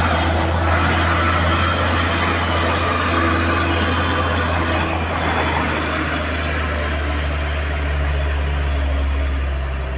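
Heavy diesel truck traffic on a hill climb: a steady low engine drone with road noise, the engine note shifting slightly near the end.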